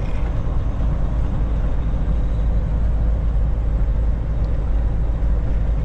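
Kenworth T680 semi truck's diesel engine and tyre noise heard from inside the cab while driving, a steady low rumble.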